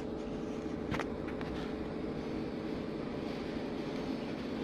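Steady low mechanical hum with a faint held tone, and a single light click about a second in.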